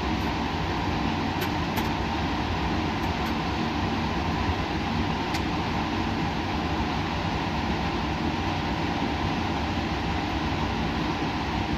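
Steady laboratory background noise: an even whir with a constant hum from running equipment or ventilation, with a few faint ticks in the first half.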